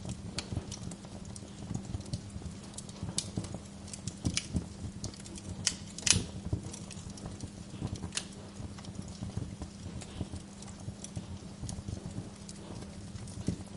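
Wood fire crackling, with irregular sharp pops and snaps, the loudest about six seconds in, over a low steady hum.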